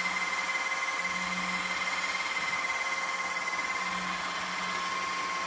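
Redkey W12 wet-and-dry vacuum running steadily, a constant motor whine over a low hum, while it picks up spilled coffee from a linoleum floor.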